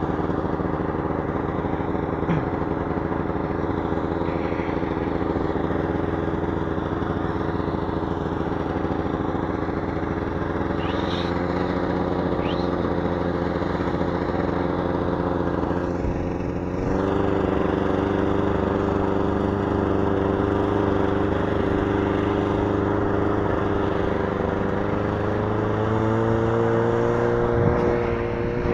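A small motor vehicle's engine running steadily under way, heard close up from on board. About 17 seconds in its note briefly drops, then picks up slightly louder and higher, and it rises a little again near the end.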